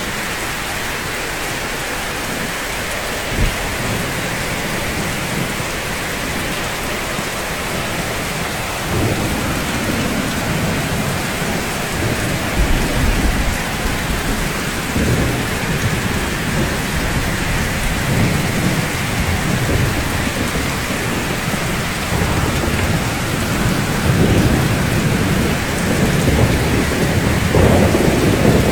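Steady rain falling, an even hiss, with low thunder rumbling in about a third of the way through and swelling again near the end.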